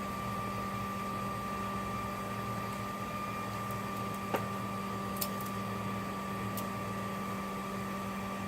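Shop vacuum converted into a bee vac running steadily, a low hum with a thin high whine, as it sucks a swarm of bees off a branch. A couple of faint clicks about four and five seconds in.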